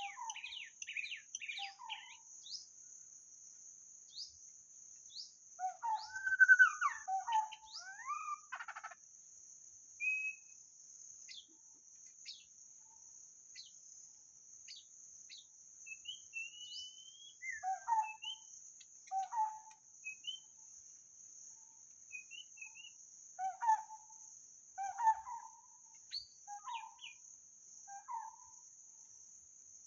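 White-rumped shama singing: a long, varied song of clear whistled phrases, quick trills and repeated lower notes, loudest about six seconds in. A steady high insect drone runs underneath.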